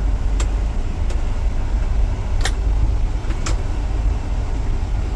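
Car in motion: a steady low road rumble, with a few sharp clicks scattered through it.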